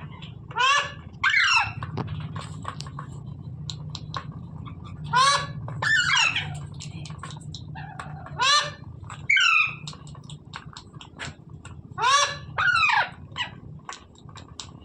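Green parrot (rose-ringed parakeet) giving loud, harsh squawks in quick pairs, four pairs about three to four seconds apart, over a steady low hum.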